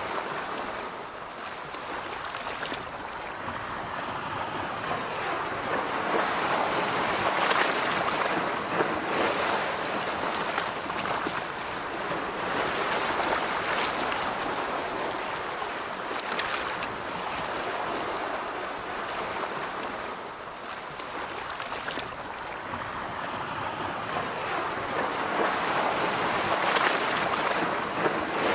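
Ocean waves washing onto a beach, the surf swelling and easing every several seconds.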